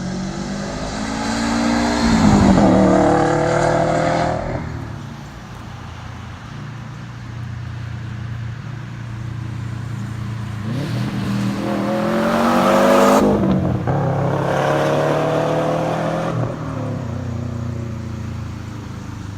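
Straight-piped 2018 Subaru WRX STI's turbocharged flat-four accelerating hard as the car drives past, twice: a pull that peaks about two to three seconds in and fades, then, about ten seconds in, a second climb in pitch with a short break near thirteen seconds before it climbs again and drops away. A lower steady engine sound runs between the passes.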